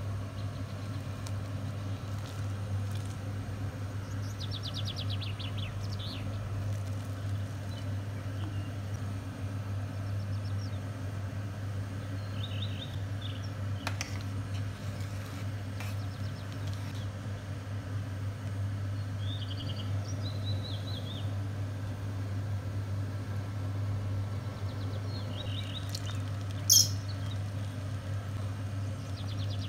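Birds chirping in short runs of quick, high notes every several seconds, over a steady low hum. A single sharp click near the end is the loudest sound.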